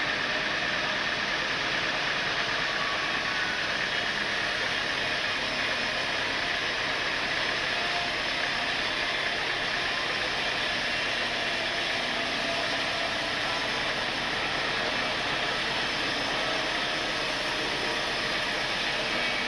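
Sawmill machinery running steadily: an even, unbroken mechanical noise with a strong hiss.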